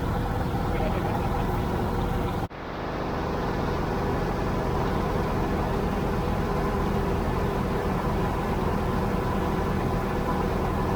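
Tractor engine running steadily under way. The sound cuts out for an instant about two and a half seconds in, then comes back.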